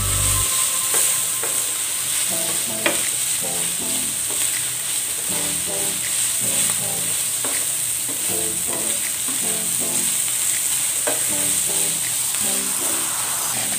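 Minced beef and onions sizzling in a hot non-stick frying pan as a spatula stirs and scrapes them around, with light clicks of the spatula against the pan and one sharper knock about three seconds in.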